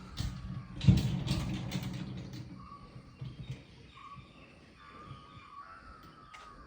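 Small birds calling outdoors in short, repeated whistled notes. About a second in, a louder noisy burst cuts in and fades away over a second or so.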